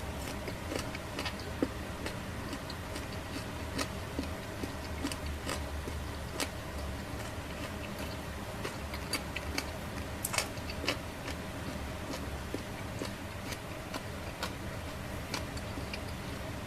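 Small fire in a BE-PAL mini fire pit crackling, with irregular sharp pops and snaps over a steady low hum.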